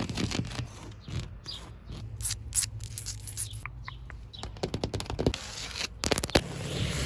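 Rapid ASMR trigger sounds: quick taps, clicks and scratching on objects, in fast irregular runs.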